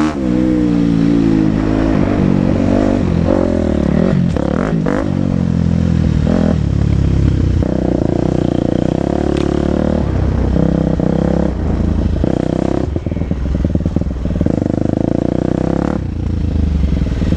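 KTM 250 SX-F single-cylinder four-stroke motocross engine revving up and dropping back again and again as the bike is ridden, with a few short knocks and clatter along the way.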